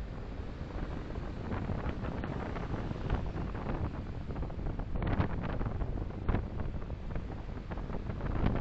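Road and wind noise of a moving car picked up by a dashcam microphone: a steady low rumble with frequent short knocks and rattles, a few louder ones about five seconds in.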